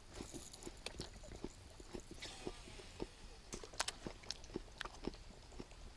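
Someone chewing an apple: faint, irregular crunches, several a second.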